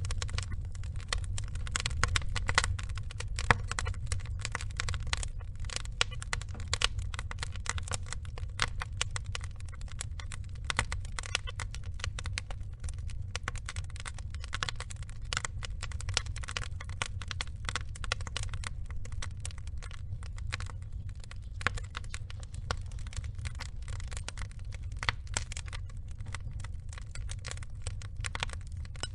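Log fire burning: dense, irregular crackling and popping of burning wood over a steady low rumble of the flames.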